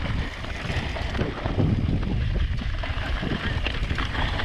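Wind rushing over the microphone and mountain bike tyres rolling on a dirt trail during a descent, with scattered small clicks and rattles from the bike.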